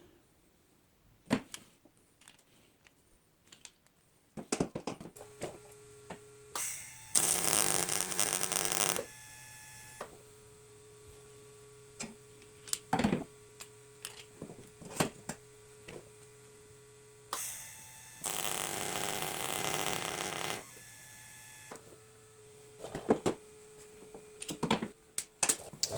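Electric welder humming, with two arc welds of about two seconds each, about seven and eighteen seconds in, fusing cracked metal without filler rod. Scattered clicks sound between the welds.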